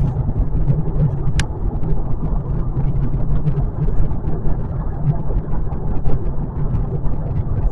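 Steady road and tyre noise with a low rumble inside the cabin of a 2025 Kia K4 at highway speed.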